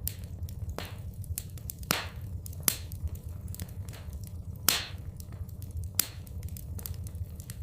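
Wood fire in a fireplace crackling, with irregular sharp pops, the loudest a little under five seconds in, over a steady low rumble.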